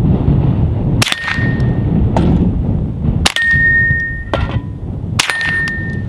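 Three .22 rounds from an integrally suppressed Ruger 10/22 striking steel pepper popper targets, each hit a sharp clang with a short ringing ting. The suppressed shots themselves are quiet, and wind rumbles on the microphone throughout.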